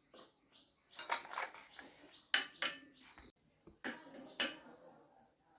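Hard objects clinking and knocking together in about five separate strikes, each with a short metallic ring.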